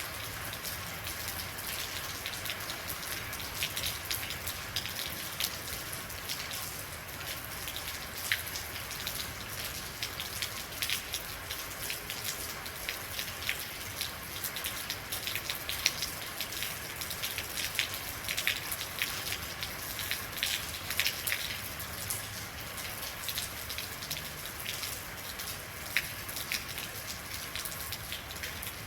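Steady real rain falling, with many distinct drops pattering on a hard surface over a continuous hiss of rainfall.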